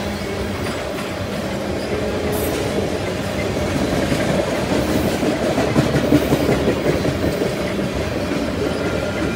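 Freight train tank cars rolling past: the steady noise of steel wheels on rail, with a few louder knocks about six seconds in.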